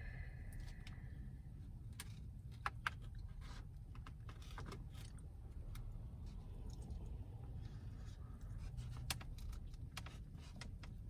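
Scattered small clicks and taps of eating and handling a takeout meal, heard inside a car over a steady low rumble.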